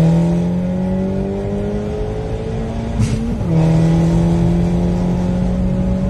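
Daihatsu Copen's small turbocharged three-cylinder engine accelerating hard through the gears: the engine note climbs slowly, then a short burst of noise about three seconds in and the pitch drops as it shifts up, before climbing again.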